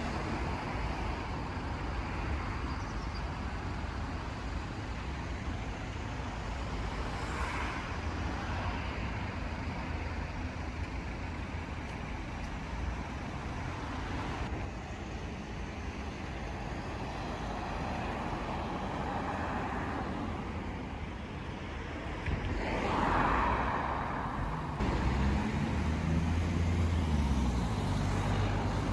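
Steady road traffic passing on busy main roads, with cars swelling past now and then. A nearer vehicle's engine drone comes in for the last few seconds.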